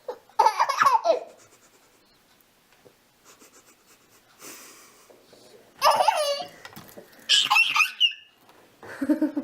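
A small child laughing and squealing in four short, high-pitched bursts, with quiet between.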